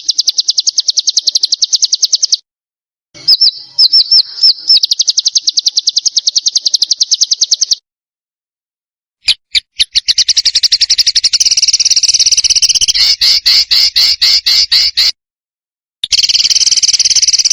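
Songbird song edited for masteran training: fast, high-pitched trills of about ten to fifteen notes a second, in runs several seconds long, cut by sudden complete silences where recordings are spliced. These are the rapid 'tembakan' bursts prized in competition songbirds.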